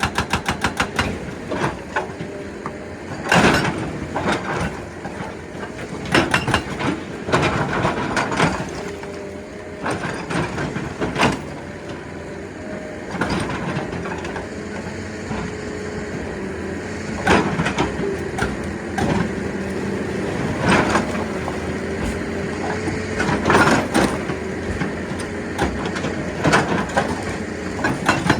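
Excavator running with a steady engine and hydraulic drone, broken by irregular loud knocks and cracks of rock a few seconds apart. A rapid hammering of about eight blows a second stops just after the start and comes back near the end.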